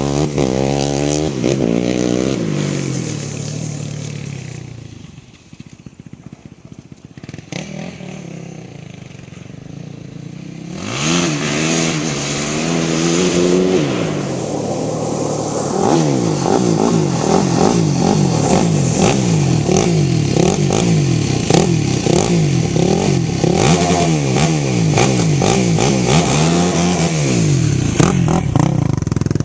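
Yamaha YFZ450 quad's single-cylinder four-stroke engine, breathing through a Lexx MX aftermarket exhaust, revving hard as it is ridden. It fades away for several seconds, then comes back close about eleven seconds in, with quick repeated rises and falls in pitch as the throttle is worked through the rest.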